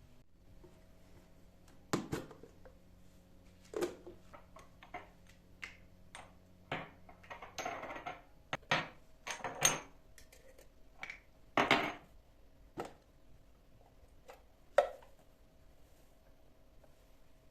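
Dishes and utensils being handled: an irregular series of clinks and knocks, with a couple of short louder clattering moments about eight and twelve seconds in.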